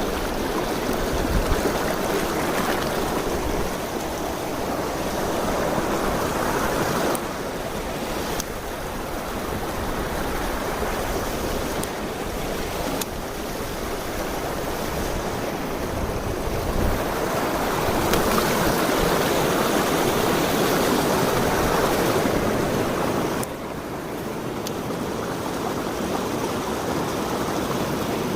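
Mountain stream rushing steadily over rocks, its loudness stepping down and back up a few times.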